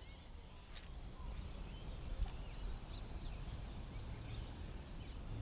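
Faint scattered bird chirps over a steady low outdoor rumble, with a single sharp click about a second in.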